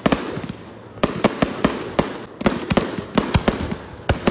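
Aerial fireworks going off in quick, irregular succession: many sharp bangs, after a short lull in the first second, over a steady crackling hiss between them.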